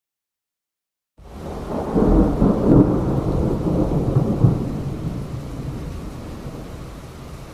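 A long roll of thunder that starts about a second in, swells and then slowly fades, over steady rain.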